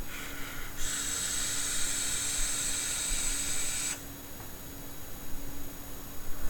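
Dual alien coils in a dripping atomizer firing on a Rig Mod mechanical mod, e-liquid sizzling steadily with a high hiss for about three seconds as air is drawn through, then cutting off suddenly when the fire button is released.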